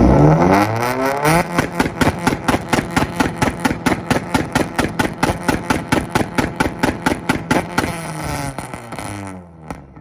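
Tuned car engine revved hard, then held on a two-step launch-control rev limiter: rapid, even bangs and pops about five a second for around six seconds, dying away near the end as the throttle is let off.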